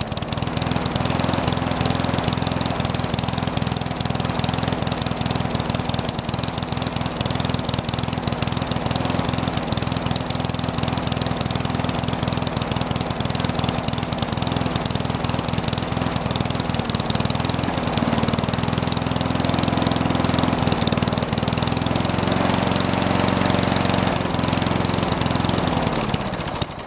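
Worn-out push mower's small single-cylinder engine running steadily with its throttle tied open while it is fed dirt through the carburetor. Near the end it slows down and dies, killed by the dirt.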